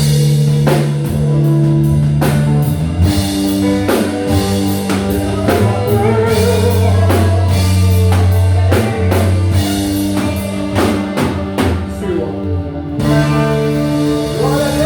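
Live rock band playing: a drum kit beating steadily over held bass notes and guitar.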